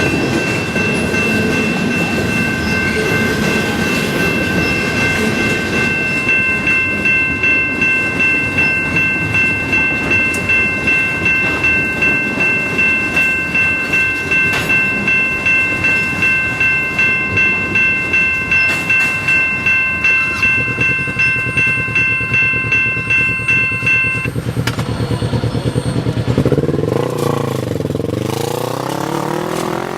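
A Canadian Pacific freight train passes close by, its car wheels clicking over rail joints about twice a second. A steady high-pitched squeal of several tones runs over it and stops about four-fifths of the way through. Near the end the sound changes to a sweeping rush as the train draws away.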